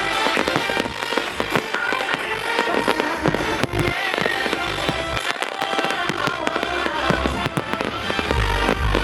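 Fireworks going off: many sharp pops, crackles and bangs throughout, over a music soundtrack.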